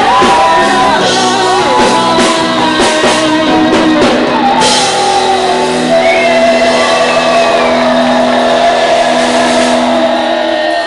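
Rock band playing live and loud: drums and guitars under a lead melody that bends up and down in pitch. About halfway through the drum strokes stop and long held notes ring on.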